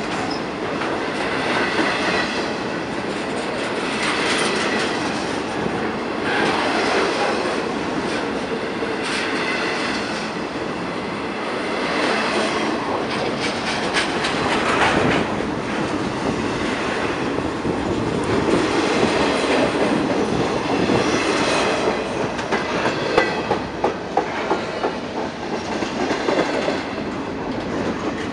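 Double-stack container cars of a CN freight train rolling past close by: a steady rumble of steel wheels on rail, with surges of clickety-clack every two to three seconds as the wheel sets pass over the rail joints, and a faint high squeal from the wheels.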